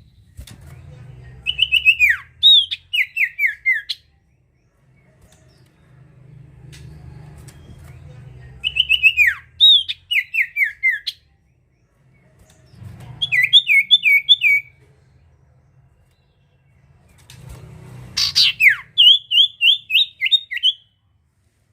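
Sirtu bird singing four phrases, each a sharp falling whistle followed by a quick run of short descending notes, spaced several seconds apart. This is the vigorous 'gacor' song used as a lure call for sirtu.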